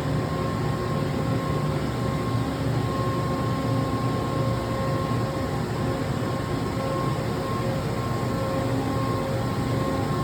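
Matsuura MC900H CNC horizontal machining center running: a steady mechanical hum with a thin steady whine over it.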